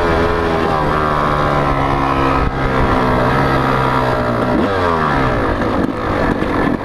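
Motocross bike engines running at high revs, the pitch climbing and falling as the throttle is worked. There is a sharp drop and re-climb about four and a half seconds in.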